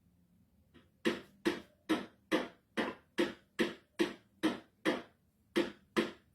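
Hammer blows in a steady rhythm, about two strikes a second, starting about a second in, with one brief pause near the end. There are about a dozen sharp strikes, each with a short ring.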